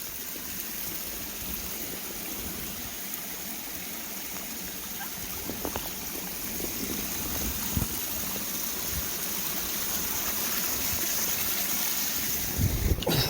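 Small creek running steadily, an even rushing hiss of water that grows a little louder, with a few soft knocks around the middle and a louder bump near the end.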